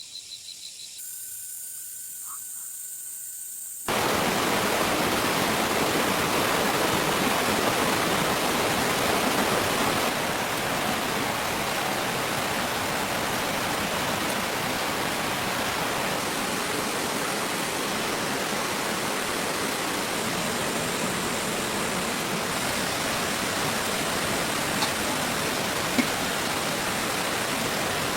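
Steady rushing noise like running water or heavy rain, cutting in abruptly about four seconds in after faint thin tones.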